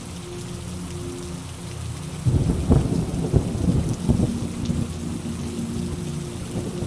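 Steady rain, broken about two seconds in by a sudden clap of thunder that crackles and rumbles for a couple of seconds before fading back into the rain.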